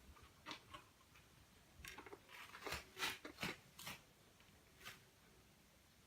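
Light scratching, rustling and small knocks, bunched together from about two to four seconds in, with a few single clicks before and after: a cat clambering and squeezing into a narrow gap around wooden furniture.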